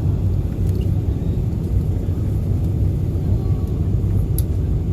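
Cabin noise aboard a Boeing 747-400 airliner: a steady low rumble of the engines and rushing air, unchanging in level.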